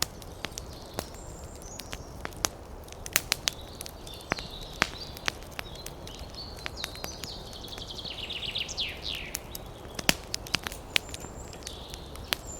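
Wood fire crackling: sharp pops and snaps at irregular intervals over a steady low rumble. A thin high whistling wavers through it, falling in pitch in quick steps about two-thirds of the way through.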